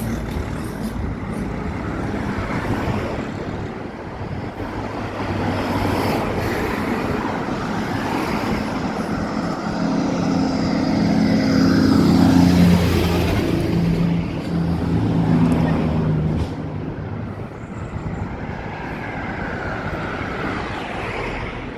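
A motor vehicle passing by, its engine growing louder to a peak about twelve seconds in and then fading away.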